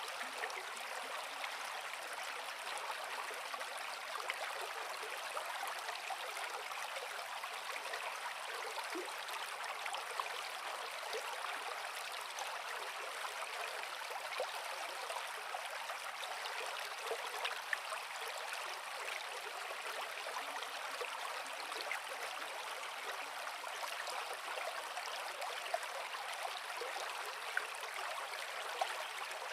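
Creek water flowing over rocks: a steady rushing splash with small bubbling trickles.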